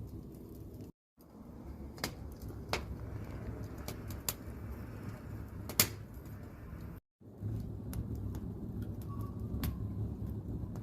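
Low steady outdoor rumble with scattered sharp clicks and snaps, one louder crack about six seconds in; the sound cuts out abruptly twice.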